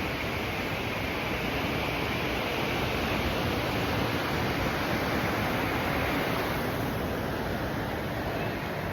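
Ocean surf washing onto the beach: a steady rushing wash that swells a little in the middle and eases slightly near the end.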